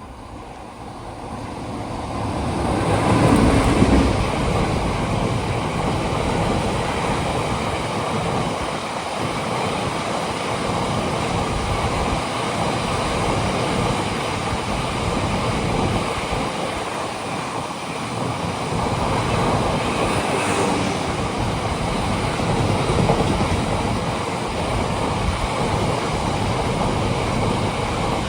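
Train passing close by: it swells over the first few seconds into a steady rumble of wheels on rail that lasts over twenty seconds, then falls away near the end.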